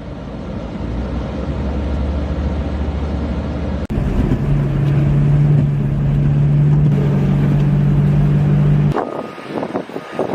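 A motor vehicle running steadily with a low rumble. About four seconds in the sound cuts abruptly to a steadier engine hum, which changes again near the end.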